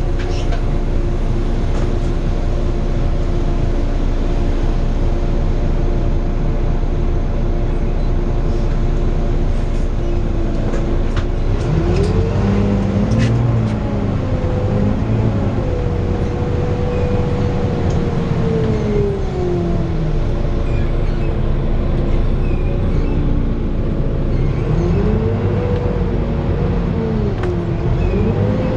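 Volvo B9TL bus's six-cylinder diesel engine heard from inside the bus: running steadily at first, then revving up as the bus pulls away, holding, and dropping back, with a second rise near the end. A few light rattles about ten to thirteen seconds in.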